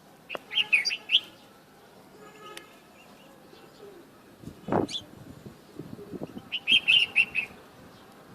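Bulbul singing two short phrases of quick, bubbling whistled notes, one near the start and one about six seconds later. A single brief thump comes about halfway through.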